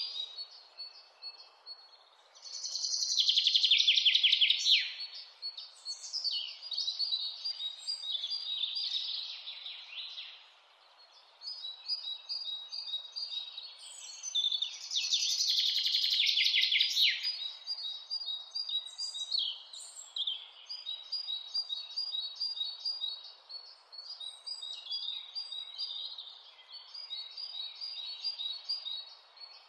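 Mountain birds singing: a chorus of high chirps and repeated short notes, with two loud rapid trills, about three seconds in and again about fifteen seconds in, over a steady faint hiss.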